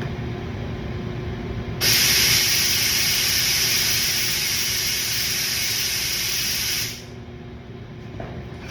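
A loud, steady spraying hiss, like air or aerosol escaping a nozzle, starts suddenly about two seconds in and cuts off about five seconds later, over a low steady hum.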